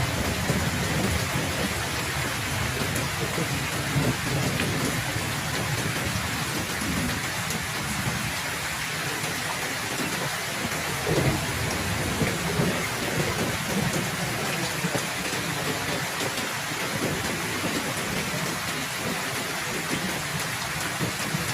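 Heavy rain falling steadily, with low rolling thunder rumbling underneath. The rumble swells a little about halfway through.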